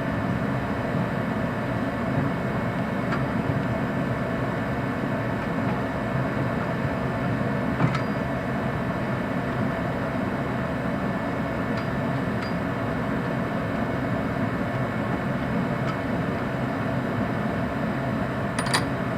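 A steady mechanical hum, with a few faint clicks of hand tools on metal scattered through it, a little sharper near the end.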